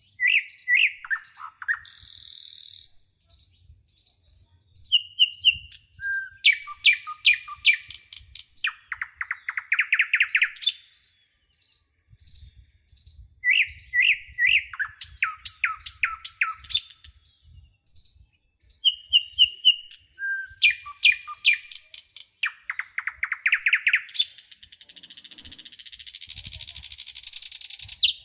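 A songbird singing repeated phrases of quick high chirps and fast trills, each phrase returning after a short pause. A hiss comes briefly about two seconds in and again for the last few seconds.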